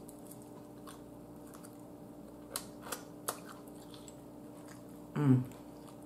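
A person chewing and eating air-fried food, with three short sharp clicks in the middle from biting and mouth noise. About five seconds in comes a brief, louder hum of her voice.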